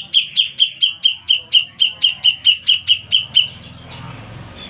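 Cucak jenggot (grey-cheeked bulbul) calling in a fast, even run of repeated sharp notes, about four and a half a second, that stops about three and a half seconds in.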